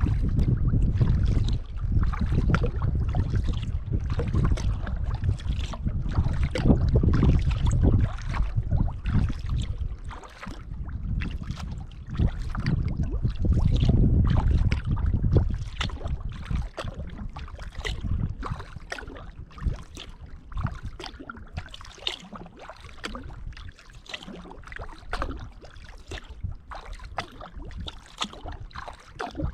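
Kayak paddle dipping and pulling through lake water, a steady run of small splashes and drips, with wind buffeting the microphone in low gusts, strongest in the first half.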